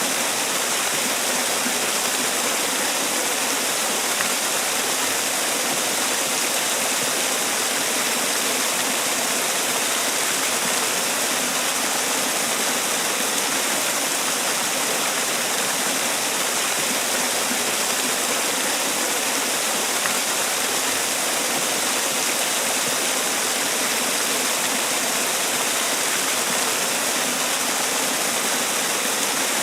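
Man-made waterfall: water falling and splashing in a steady, even rush with no change throughout.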